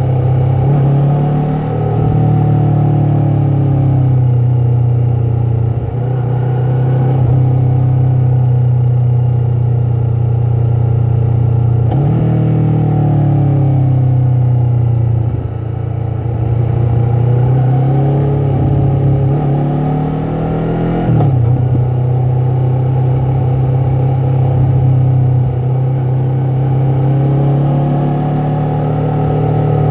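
Yamaha MT-03 parallel-twin engine and exhaust running under way, the pitch rising and falling with the throttle. The engine note changes sharply about twelve seconds in and again about twenty-one seconds in, as with gear changes.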